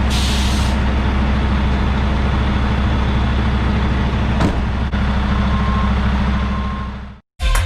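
Semi-truck diesel engine running steadily, with an air hiss that stops in the first second and a single click about four and a half seconds in; the sound fades out just before the end.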